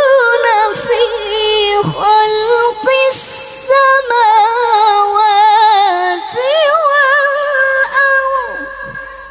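A woman's voice reciting the Quran in melodic tilawah style, holding long high notes with vibrato and ornamental turns. The phrase fades out near the end.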